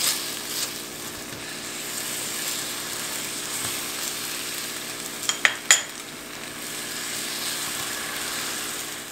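Chicken pieces sizzling in a frying pan as a silicone spatula stirs them, over a faint steady hum. Two sharp clicks come about five and a half seconds in.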